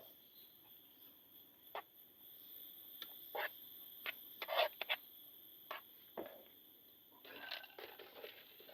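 Scattered light clicks and knocks, a few in quick clusters, from handling food packets and cooking gear. A faint steady high-pitched tone runs underneath.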